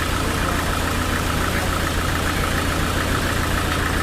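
Sawmill machinery running steadily: a constant low engine-like hum with a higher whirring band above it.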